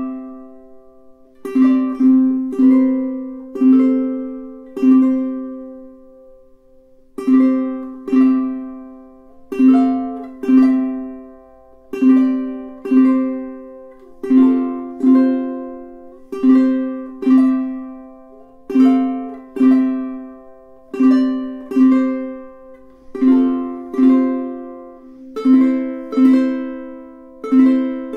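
Solid koa aNueNue UT5K tenor ukulele playing a chord sequence. Each chord is struck and left to ring and fade, about one a second, with one longer held chord about five seconds in.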